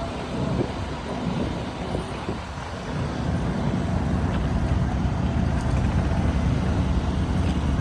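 A vehicle engine running steadily with a low rumble, dipping slightly about two seconds in.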